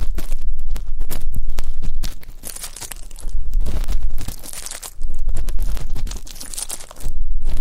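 ASMR ear cleaning: an ear pick scratching and crackling close against the microphone, in about four spells of one to two seconds with short quieter pauses between.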